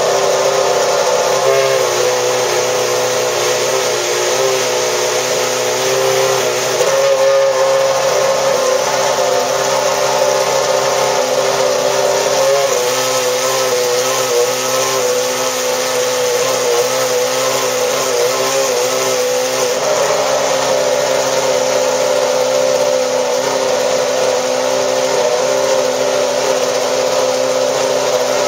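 Ferrari F10 Formula One car's 2.4-litre V8 running at a steady fast idle while warming up. The pitch wavers slightly now and then.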